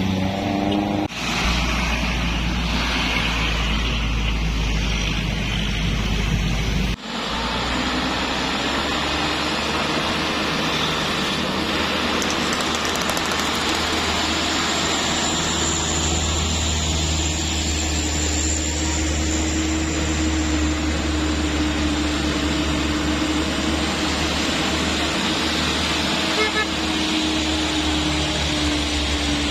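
Heavy trucks' diesel engines running on a steep road, with a low steady drone and a held engine tone through the second half. The sound cuts off sharply about a second in and again about seven seconds in.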